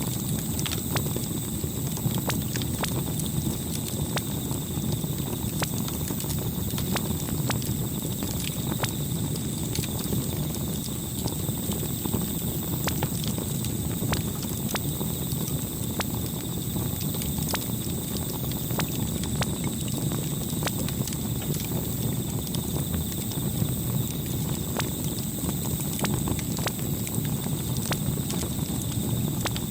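Campfire crackling: frequent irregular sharp pops and snaps of burning wood over a steady low rumble.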